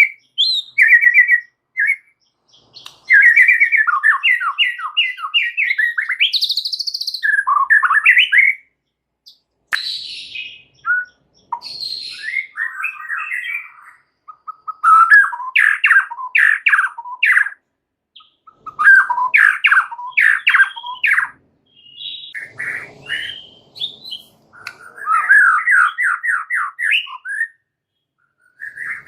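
White-rumped shama (murai batu) singing loudly and energetically: bursts of fast repeated whistled and chattering notes, delivered in varied phrases broken by short pauses.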